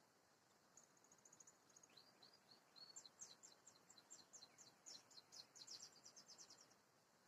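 Domestic canary singing faintly: a short fast trill, a few rising slurred notes, then a long run of rapid repeated notes that stops shortly before the end.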